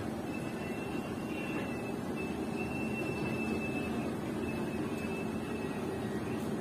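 Passenger train coaches rolling slowly along a station platform, heard from an open coach door: a steady low rumble of wheels on the track. A faint, thin, high squeal comes in about a second in and fades out near the end.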